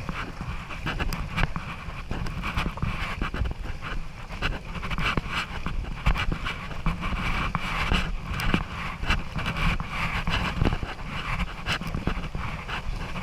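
Rushing river water and paddle splashes around an inflatable raft, with many short splashes and knocks and a low wind rumble on the microphone.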